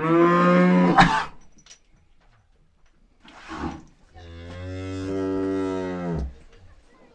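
Cow mooing: a loud moo, a brief low call about three and a half seconds in, then a long, steady moo.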